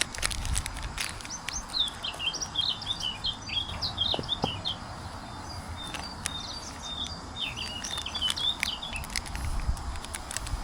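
Small birds chirping in quick runs of short, high notes, with a few light clicks and knocks close by.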